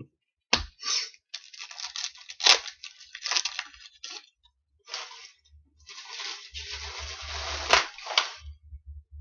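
Trading card pack wrappers and cards being handled, crinkling and crackling in irregular bursts as packs are torn open and the cards flipped through.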